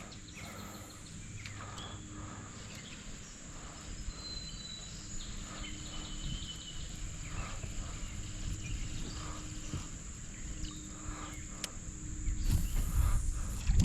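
Outdoor river ambience: a steady high-pitched insect drone over a low rumble, with a few faint knocks.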